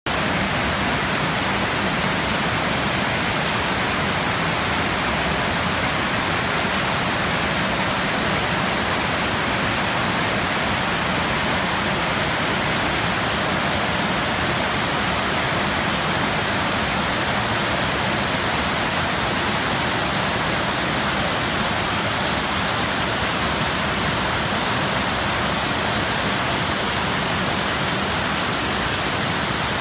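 Floodwater rushing in one steady, unbroken noise with no let-up.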